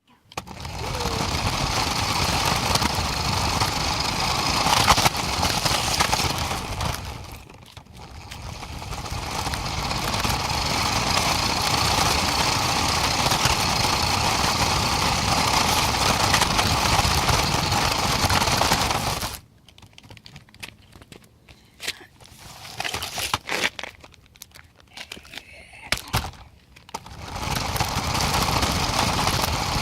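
Truck engine and road noise heard as a steady rumbling hiss, dipping briefly about eight seconds in. From about two-thirds of the way through it drops out for several seconds, leaving scattered clicks and knocks, then comes back.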